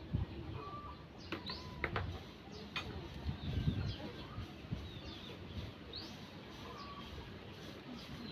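Birds chirping in short, scattered rising calls over a low outdoor rumble, with a few sharp clicks.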